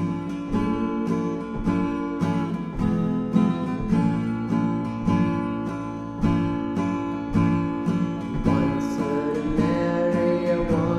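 Acoustic guitar strumming chords in a steady rhythm, about two strokes a second, playing a traditional sea shanty tune.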